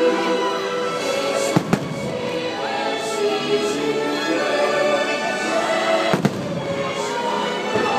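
Firework shells bursting, two sharp bangs in quick succession about a second and a half in and another pair about six seconds in, over the fireworks show's music playing on loudspeakers.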